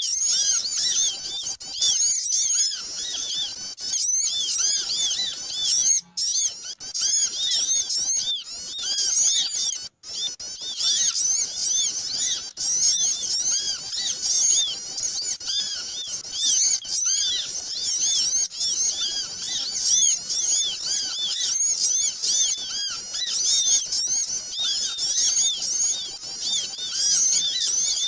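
A dense chorus of many small birds chirping at once, with quick, high, overlapping calls and no let-up: a noisy flock recording of the kind played as a lure (suara pikat) to draw small birds in. The sound briefly drops out about six and ten seconds in.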